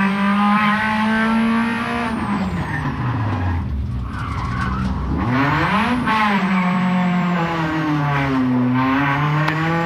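Rally car engine heard from inside the cockpit. It holds high revs, then the revs fall away from about two seconds in as the car slows for a tight left turn at a junction. About six seconds in they climb sharply again as the car accelerates uphill, with a short dip near the end at a gear change.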